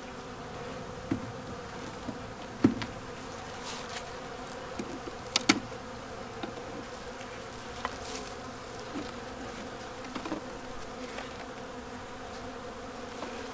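Honeybees buzzing in a steady, layered hum over an open hive, with a few sharp clicks, the loudest about five and a half seconds in. The colony is one the beekeeper has just judged queenless.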